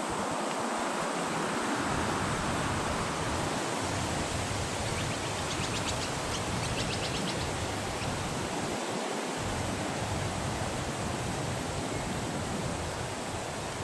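Steady rushing wind, with a small bird giving a quick series of high, rapid notes for a couple of seconds about five seconds in.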